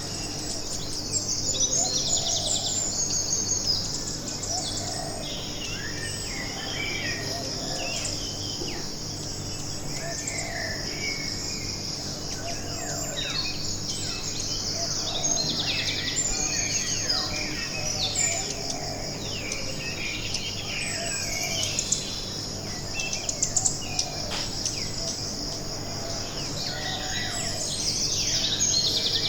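Tropical forest ambience: a steady, high, pulsing insect drone with many birds chirping and calling throughout, some calls sweeping downward in pitch.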